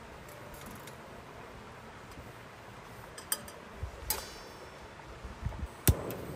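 A few sharp clicks and small metallic clinks of handled objects over a faint steady background, one followed by a short ring and the loudest a single sharp click near the end.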